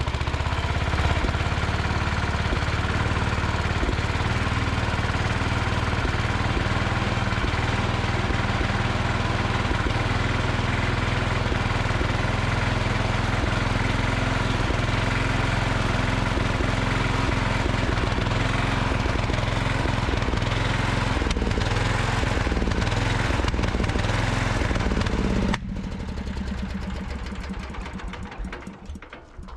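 MTD 990 garden tractor's small engine running revved up, then cutting out suddenly about 25 seconds in and winding down to a stop. The engine is backfiring at the higher RPMs, which the owner puts down to too rich a fuel mixture at high speed or ignition timing that is off.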